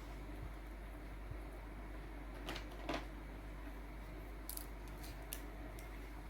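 Steady low room hiss with a few brief scratchy handling sounds, two about two and a half to three seconds in and a couple more near the end.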